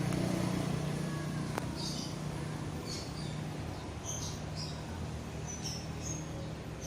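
Strong wind rumbling steadily over the microphone, with short high bird chirps about once a second.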